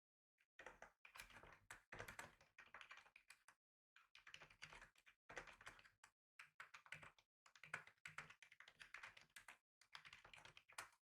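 Faint typing on a computer keyboard: rapid runs of key clicks in bursts with short pauses between them, stopping just before the end.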